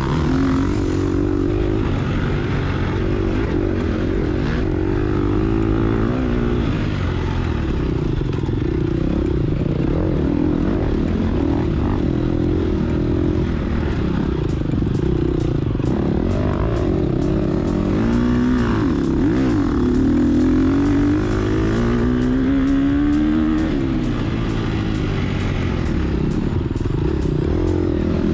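2022 Gas Gas EX250F's single-cylinder four-stroke engine under load off-road, its pitch rising and falling as the throttle is worked. From about halfway through, a run of sharp rapid ticks rides over it.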